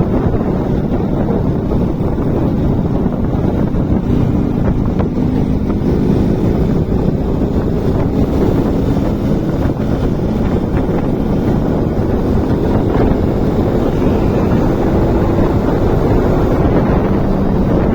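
Motorcycle on the move: heavy wind buffeting the microphone over the steady drone of the engine.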